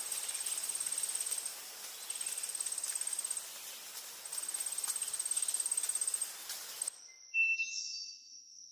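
Insects trilling in repeated pulsed bursts about a second or so long, high-pitched over a steady hiss of forest ambience. About seven seconds in the hiss and trilling cut off suddenly, leaving a few thin high whistled tones and one brief louder whistle.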